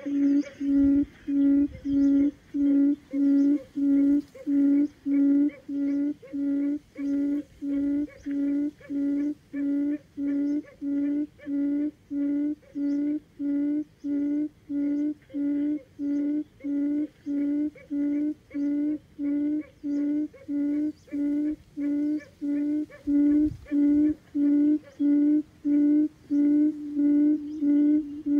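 Wild quail calling: a long, even series of low hooting notes, about two a second, every note at the same pitch.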